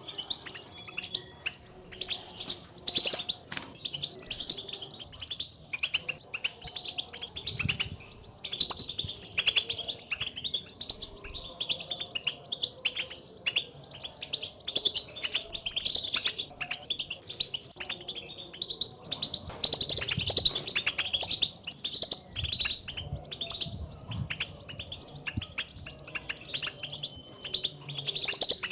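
European goldfinches calling: a continuous stream of rapid, high twittering chirps, the contact calls goldfinches use to call to one another, which keepers play to stir a caged goldfinch into song.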